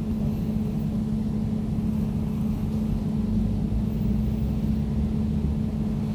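Air conditioner running steadily: an even, low hum with a constant tone over a deeper rumble.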